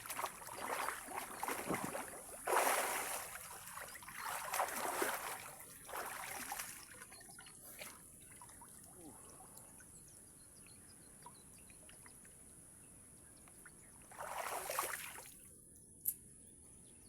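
Water splashing and sloshing as a person moves about while swimming, in several surges through the first seven seconds and one more about fourteen seconds in, with quiet stretches in between.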